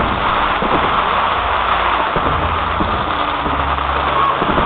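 Fireworks fountains burning: a loud, steady, dense hiss with crackling.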